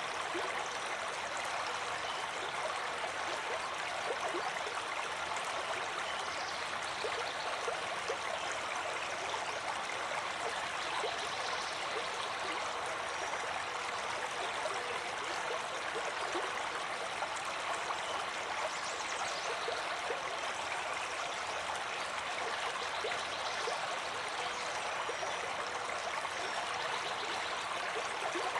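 Flowing water from a stream, running steadily with small trickles and splashes.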